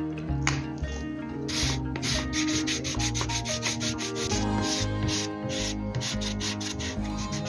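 Art tool rubbing on paper in repeated short strokes, a few a second, over soft instrumental background music.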